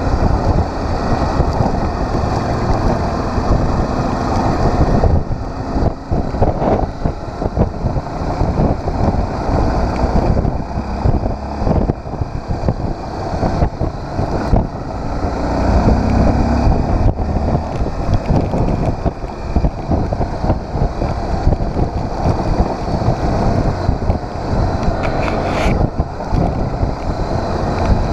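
Motorcycle on the move: wind buffeting the microphone over the engine and road noise, loud and steady throughout.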